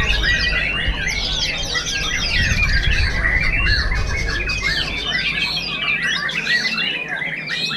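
White-rumped shama song: a dense, unbroken stream of rapid, varied whistles and chirps, with more than one bird singing at once. A low background rumble dies away about five seconds in.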